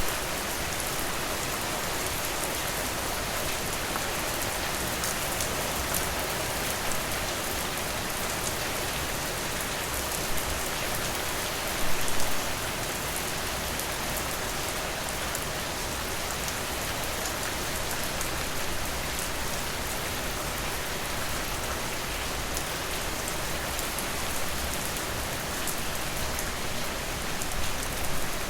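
Steady rain falling in a dense, even hiss of drops, with a brief louder burst about twelve seconds in.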